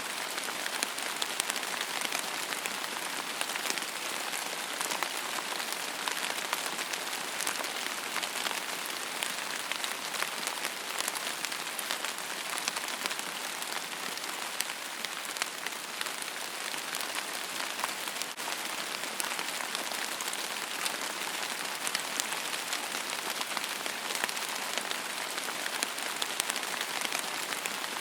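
Steady rain falling on a surface, with many fine individual drop patters over an even hiss.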